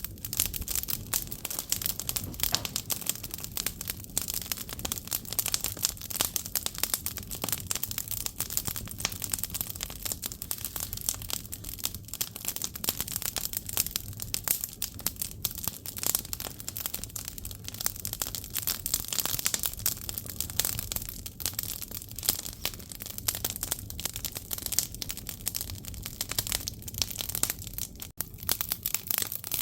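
Firewood burning in an agungi, a traditional Korean wood-fired firebox, crackling steadily with a dense run of small sharp snaps.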